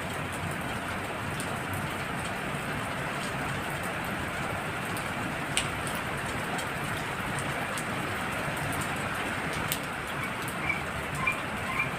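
Heavy rain falling steadily, with a few sharp drip impacts. Near the end, frogs call in short repeated notes.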